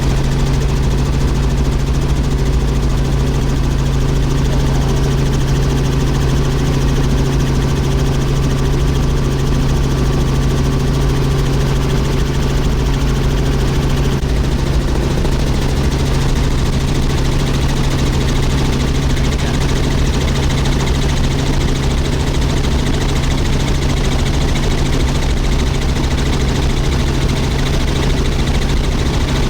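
Helicopter in flight, heard from inside the cabin: a loud, steady engine and rotor drone with a strong low hum that does not change.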